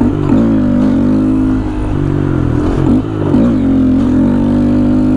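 Honda Grom's 125 cc single-cylinder four-stroke engine running at cruising speed on a dirt road. Its pitch dips briefly and climbs back a few times as the throttle is eased and reopened.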